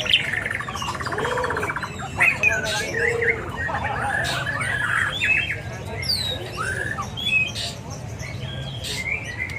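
Many caged songbirds calling over one another: a mix of chirps, squawks and short whistled glides, with a fast buzzy rattle in the first two seconds.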